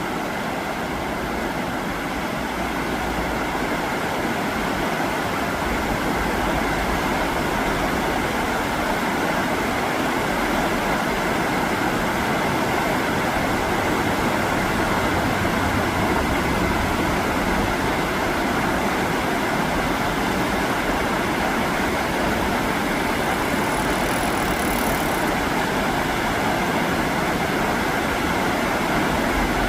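Rough, fast river current rushing steadily.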